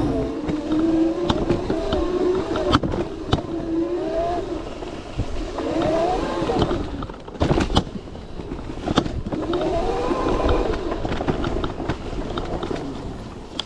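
Modified 72-volt Razor MX650 electric dirt bike's drivetrain whining, the pitch rising and falling several times as the throttle is worked, with scattered sharp knocks and clicks from the bike over rough trail.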